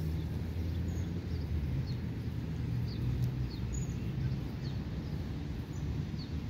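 Outdoor ambience of a steady low rumble, with a small bird's short high chirps repeating faintly about once or twice a second.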